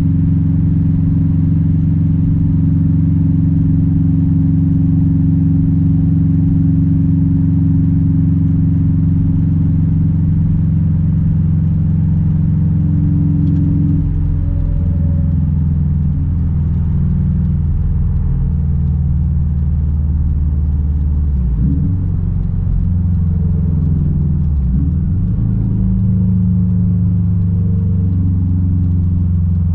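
2006 Subaru WRX STI's straight-piped 2.5-litre turbocharged flat-four running at a steady engine speed, its note shifting about halfway through. Later the engine note twice drops sharply and comes back up.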